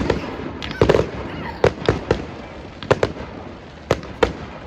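Fireworks display: aerial shells bursting in quick succession, about ten sharp bangs at irregular intervals.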